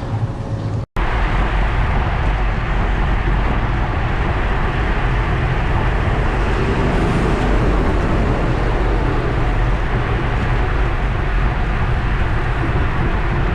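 Steady rush of wind on the microphone of a camera riding along on a road bike, with tyre and road noise underneath. The sound cuts out completely for a moment just under a second in.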